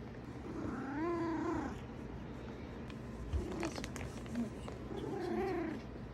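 Domestic cat purring steadily, with two drawn-out rise-and-fall meowing calls, one about a second in and one near the end. A few short clicks come in between.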